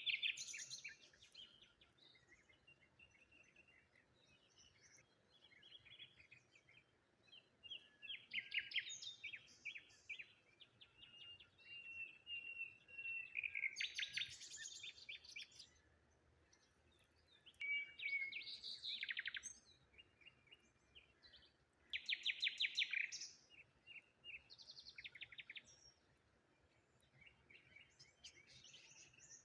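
Wild songbirds singing: short trilled and chirping phrases repeated every few seconds.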